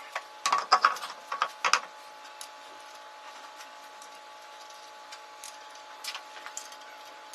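Metallic clicks and knocks as a road wheel is fitted onto the hub: a quick cluster in the first two seconds, then occasional single ticks over a faint steady hum.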